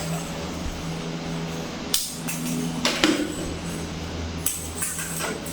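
A few scattered sharp knocks and clinks, as of hard objects being struck or set down, over a steady low hum.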